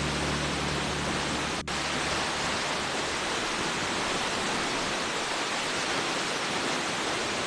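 Waterfall rushing with a steady, even roar. Sustained low music notes play under it for the first second and a half, then stop at a brief dropout.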